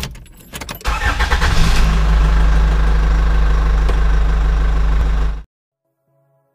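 A car engine is cranked with a short stutter, catches about a second in and flares up, then settles into a steady idle. It cuts off suddenly about five and a half seconds in.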